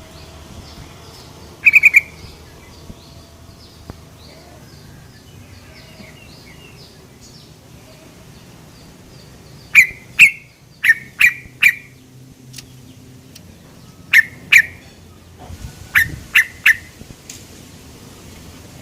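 Yellow-vented bulbul (trucukan) giving short, sharp 'cuk' call notes in quick clusters of two to five, the sort used as a lure call for caged birds. A faint, evenly repeated chirping carries on underneath through the first half.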